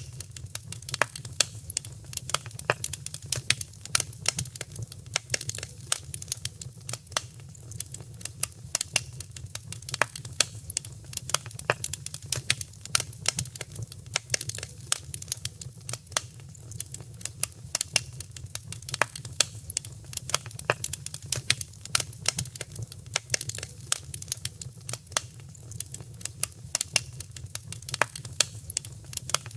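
Wood fire in a fireplace crackling and popping, with many small irregular snaps and a steady low rumble of the flames underneath.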